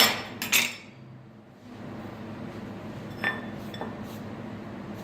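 Kitchen utensils clinking on a hard surface: two sharp clinks at the start, then two lighter taps about three seconds later.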